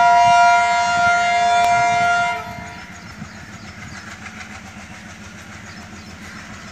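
Diesel locomotive's multi-tone horn sounding one steady blast for about two and a half seconds, then stopping. After it, the passing train's coaches continue as a quieter rushing rumble with faint rhythmic wheel clatter.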